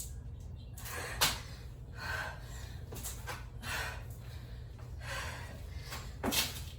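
A woman breathing hard during a bodyweight exercise set, with forceful breaths about once a second. Two of them come out louder and sharper, about a second in and near the end.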